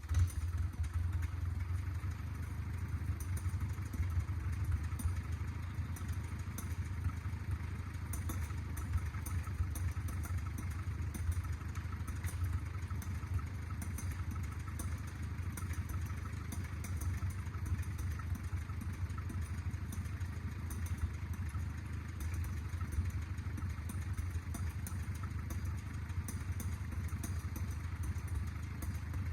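Engine of a small 1950s bulldozer running steadily, with a light clatter over it.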